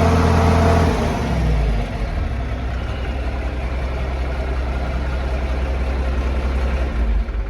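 John Deere 4430's turbocharged six-cylinder diesel running after a cold start. It drops from a faster speed to a lower, steady idle about a second in, and starts to die away right at the end.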